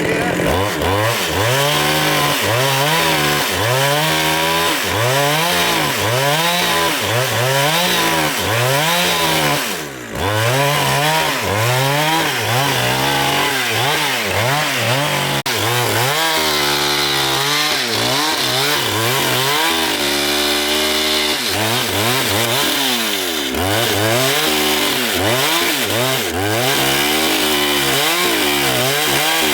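Engine-driven saw running while cutting through a log, its engine pitch repeatedly rising and falling about once a second as the load comes and goes. The sound dips briefly about ten seconds in.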